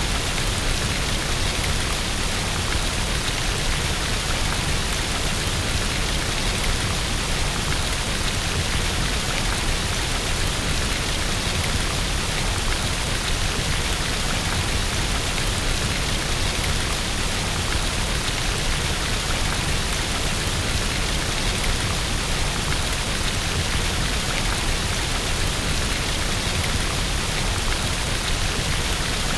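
Steady rain on a window: an even, unbroken hiss with a constant low rumble beneath it.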